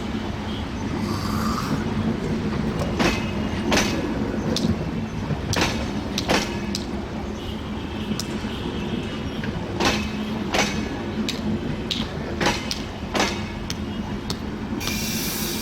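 Broad-gauge intercity express train passing at close range. A steady rumble runs under repeated sharp clacks of the wheels over rail joints, and a high-pitched wheel squeal starts near the end.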